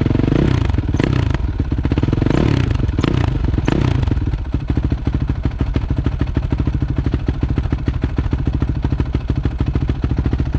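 Honda CRF450R's single-cylinder four-stroke engine blipped three times over the first few seconds, then settling to a steady idle.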